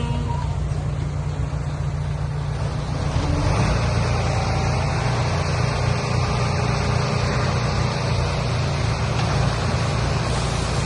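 Heavy machine's diesel engine running steadily with a deep rumble; about three and a half seconds in it grows louder and a broad rushing noise joins it.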